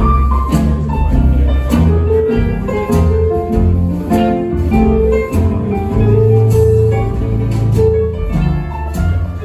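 Live band playing an instrumental break, with guitar over bass and drums keeping a steady beat.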